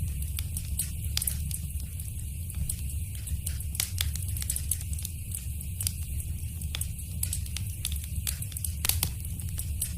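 Wood fire crackling: many sharp, irregular pops and snaps over a steady low rumble and soft hiss.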